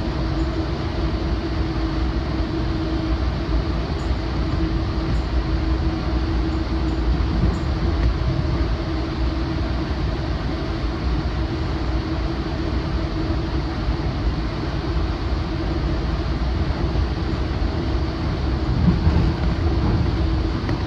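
A commuter train running at speed, heard from inside a Rotem cab car coupled right behind a GE AC4400CW diesel locomotive: a steady low rumble of wheels on the track. A steady hum is there for the first few seconds, fades, and comes back near the end, and the rumble swells briefly about two seconds before the end.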